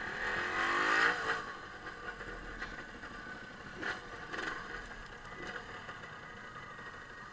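Off-road motorcycle engine revving, its pitch rising over the first second or so, then running quieter with a few short knocks around the middle.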